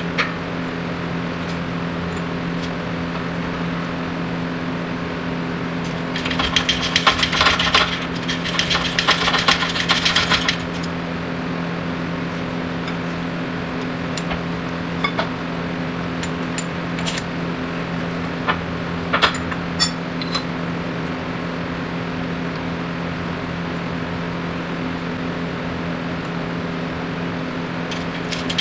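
Steady machine hum with a burst of rapid metallic rattling about six seconds in, lasting some four seconds, then scattered sharp clinks of metal tools and parts.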